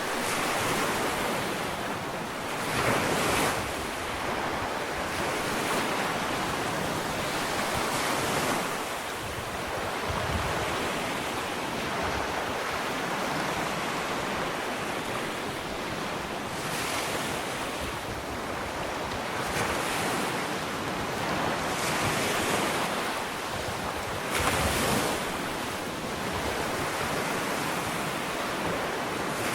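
Ocean waves washing onto a sandy beach: a steady surf hiss with waves swelling and breaking every few seconds, a louder one about three seconds in and another near the end.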